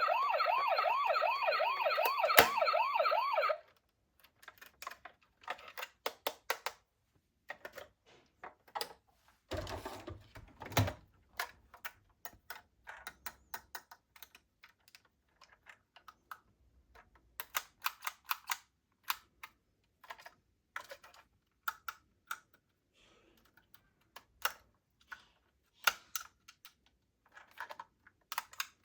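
A toy police car's electronic siren warbling in a fast up-and-down yelp, cutting off about three and a half seconds in. After it come scattered light clicks and taps, typical of small plastic toy cars being handled, with a brief low rumble partway through.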